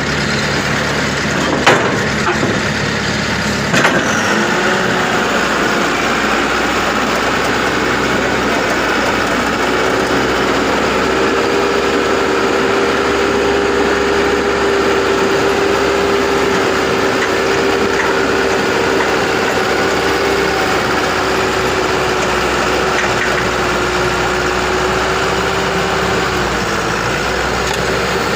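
Combine harvester engine running steadily, with a steady whine that holds through most of the stretch. There are two sharp knocks in the first few seconds.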